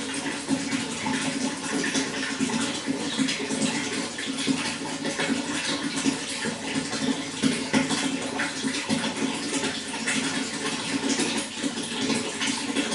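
Running water flowing steadily, a continuous splashing, gurgling rush.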